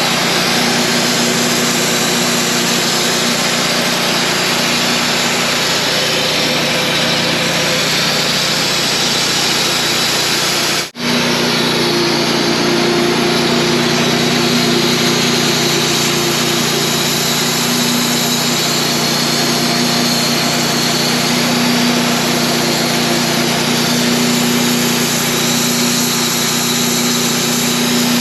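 Wood-Mizer portable band sawmill running steadily, its engine humming under the hiss of the band blade cutting through a log. A split-second gap breaks it partway through.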